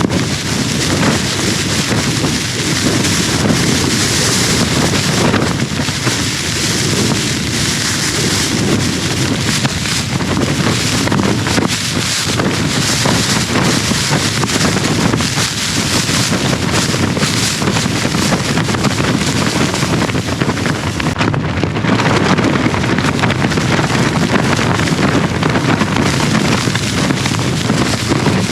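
Strong gusting wind battering a tent, with the fabric flapping and rattling and heavy wind noise on the microphone.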